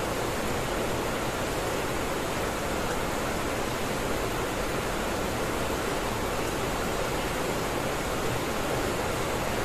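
Heavy rain pouring steadily, an even wash of noise with no breaks.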